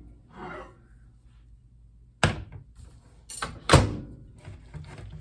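Microwave oven door opening with a sharp thunk a little over two seconds in, the oven's low hum stopping with it, then two more knocks as the glass bowl is taken out and set down, the second the loudest.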